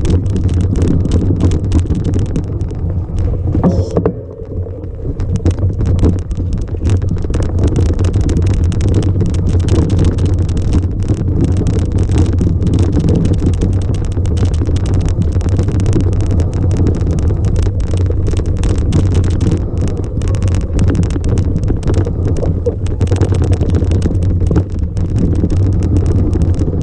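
A vehicle engine drones steadily while moving, with wind buffeting the microphone and frequent short knocks and rattles. The sound dips briefly about four seconds in.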